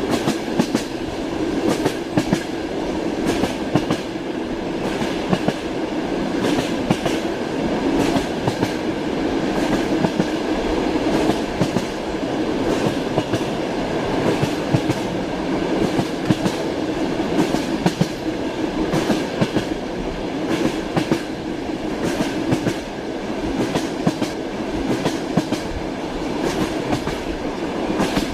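Wheels of a passenger train clacking over the rail joints, heard from inside a sleeper compartment. Frequent sharp knocks ride over the steady rumble and hum of the moving carriage.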